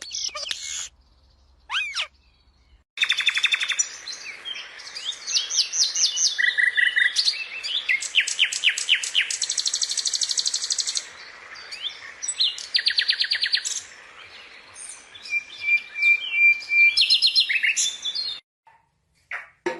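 Birdsong: a dense run of varied fast chirps and trills, repeating notes in quick series. It starts properly about three seconds in and stops shortly before the end.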